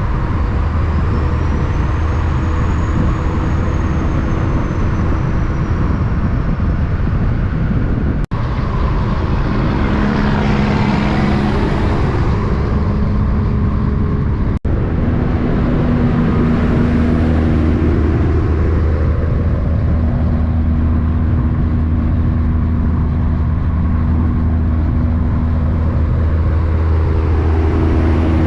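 Big-rig truck traffic: a steady low diesel engine drone, with a vehicle passing by about ten seconds in. The sound cuts out for an instant twice.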